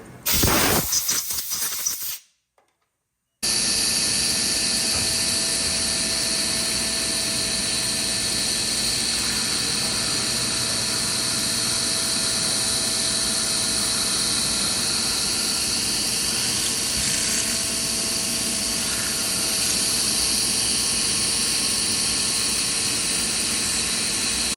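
Vertical milling machine running: a short loud noisy stretch, cut off a little after two seconds in, then after a brief silence a steady machine noise with a high whine that holds level to the end.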